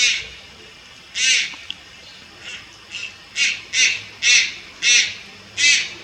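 Juvenile Malayan night heron giving a series of about nine short, harsh squawks, each under half a second, two of them fainter, coming closer together in the second half.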